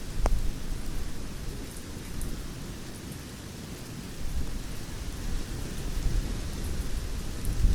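Campfire burning with a steady low rumble of flames and a few scattered crackles and pops, one sharp pop just after the start.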